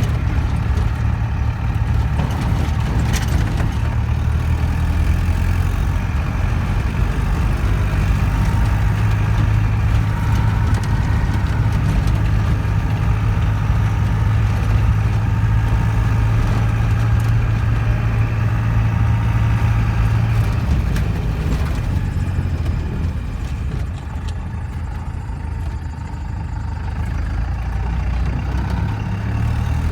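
Motor vehicle engine running steadily with road noise as it drives, easing off briefly near the end and then picking up again.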